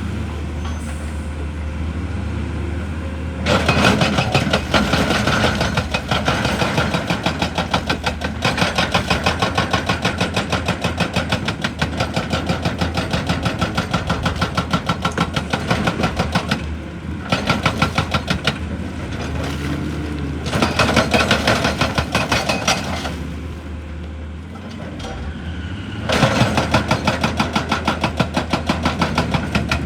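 Excavator's hydraulic rock breaker hammering rock in rapid, even blows, in several bursts with short pauses, over the steady hum of the excavator's diesel engine.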